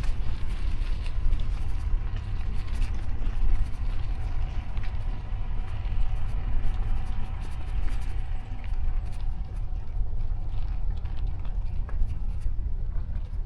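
City street traffic heard from a moving bicycle: a constant low rumble under a steady wash of road noise, a faint steady whine and scattered light clicks.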